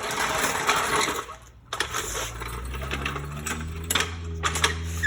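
A jack being worked under the rear of a garden tractor, giving scattered metallic clicks and rattles. From about two seconds in, a steady low hum runs underneath.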